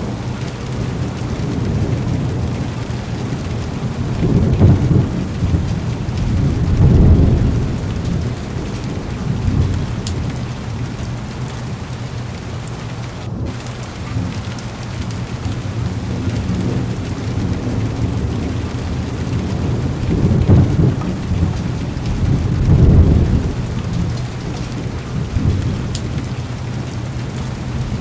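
Heavy rain falling steadily on a car's window and body, with low rumbles of thunder swelling up four times: twice a few seconds in and twice past the middle.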